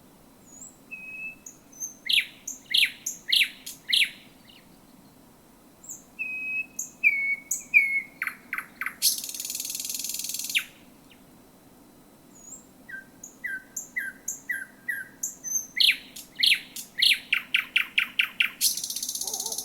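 Thrush nightingale singing close to the recorder: three song phrases made of thin whistles and fast series of loud, clipped repeated notes, the second and third each ending in a harsh buzzing rattle.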